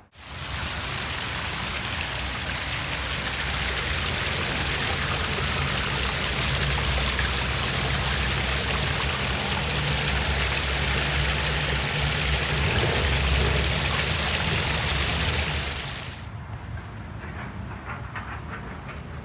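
Steady, loud rush of water, cutting in suddenly and breaking off about three-quarters of the way through to a quieter background.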